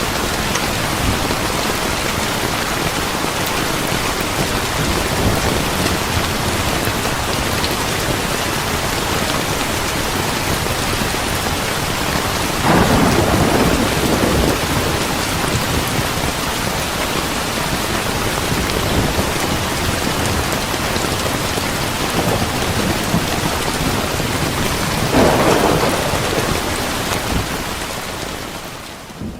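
Steady heavy rain with two rolls of thunder, about 13 and 25 seconds in. The sound dips sharply in the last moment.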